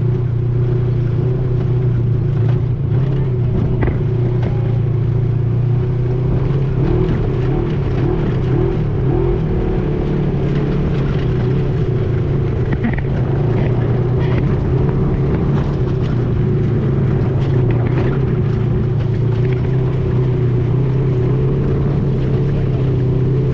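Off-road tour vehicle's engine running steadily at cruising speed, heard from on board while riding, with a few faint clicks and rattles.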